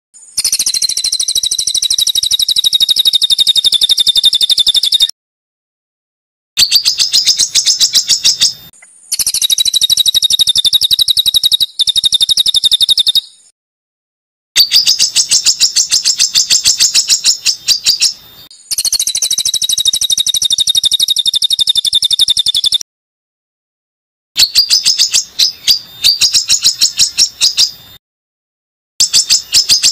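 Songbird singing rough, rapid-fire trills of one note repeated many times a second, high-pitched. The phrases last a few seconds each and are separated by short silent gaps, about six phrases in all.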